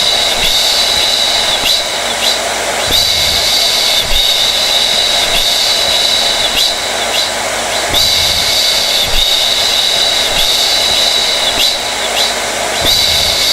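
Hair dryer running steadily: a loud, even rush of blown air with a high whine on top, swelling slightly about every five seconds.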